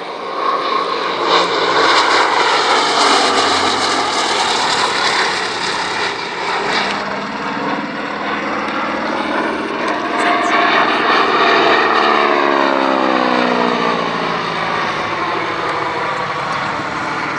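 Aircraft flying past at an air display: its engine roar builds, then the engine note drops in pitch as it passes and moves away.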